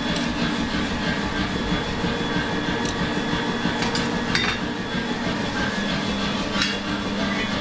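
Blacksmith's power hammer running with a steady hum and rapid hammering, driving a hot-cutting tool into hot steel, with a few sharp metallic clinks.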